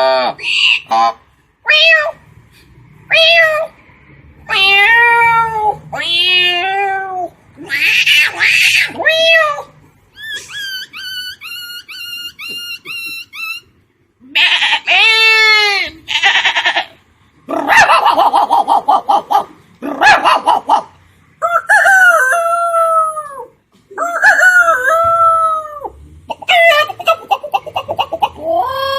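A person imitating animal calls with their voice: a series of rooster-like crows and dog-like howls, with a run of short, high, repeated bird chirps about ten seconds in.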